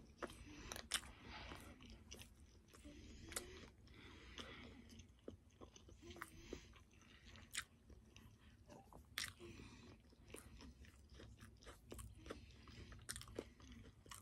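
Faint chewing of a crispy chicken sandwich, with irregular small crunches and wet mouth clicks.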